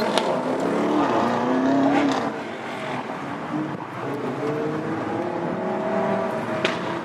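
Supercar engine running and revving: its note drops about two seconds in, then climbs steadily through the rest, with a few sharp pops or clicks over it.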